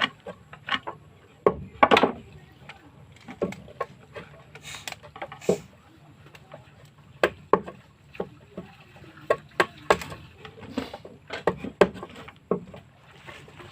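Irregular knocks and taps on wood from work on a wooden boat, a dozen or more sharp strikes at uneven spacing.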